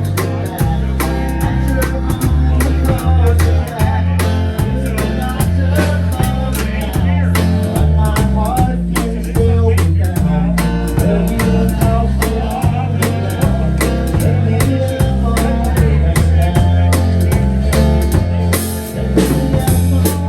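A live rock trio playing an instrumental passage: a drum kit keeps a steady beat under guitar and a moving low bass line.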